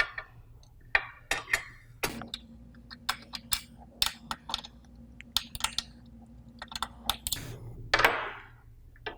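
Wrenches clinking and clicking against the water-line fittings of a solenoid valve as the connections are loosened: a string of sharp, irregular metallic clicks, with a short scraping noise near the end.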